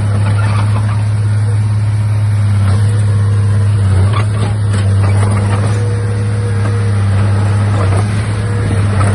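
Komatsu D31A bulldozer's diesel engine running steadily with a deep, even drone, with scattered clanks and rattles over it.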